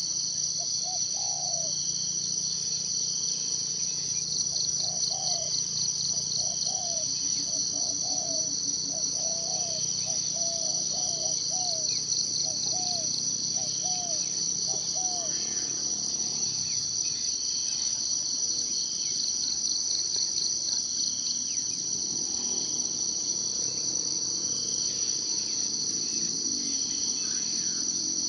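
Steady, high, pulsing insect chorus from forest crickets. Over the first half, a bird gives a series of short, low, rising-and-falling notes, with a few faint higher chirps.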